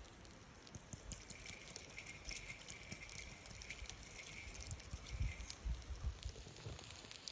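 Campfire crackling, with fat sizzling from spare ribs cooking over the flames: a steady run of small pops and crackles over a soft hiss, with a few low thumps about five seconds in.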